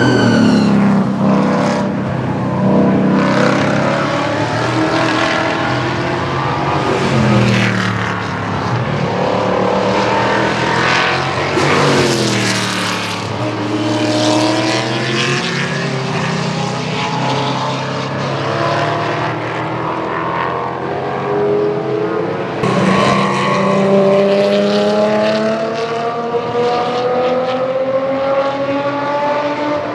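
Racing cars of the SCCA Touring 2 and American Sedan group passing one after another at full throttle. Their engines climb in pitch as they accelerate and drop away as each car goes by. Several cars overlap, and there is a short lull about 23 seconds in before the engine notes climb again.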